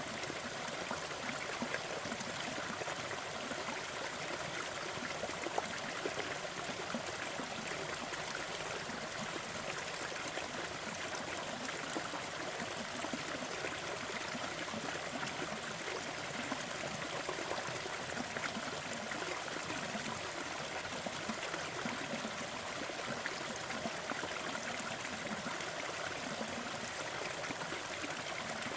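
Waterfall: water pouring and splashing in a steady, even rush, light on deep rumble.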